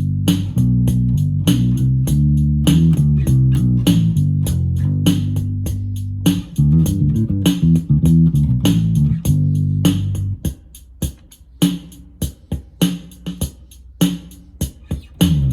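Electric bass guitar played through a Roland Micro Cube Bass RX combo amp, a bassline over the amp's built-in rhythm box drum pattern. The bass notes run densely for about ten seconds, then mostly drop out leaving the drum beat, and come back near the end.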